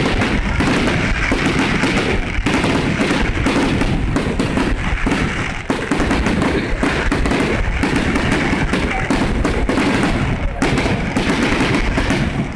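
Fireworks going off without a break: a dense, continuous run of bangs and crackles.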